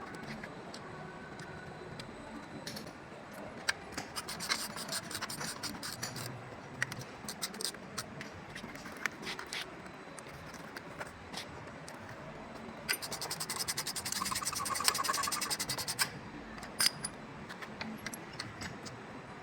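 Work noise on metal parts: scattered clicks, knocks and scraping, with a fast, even run of clicks lasting about three seconds past the middle.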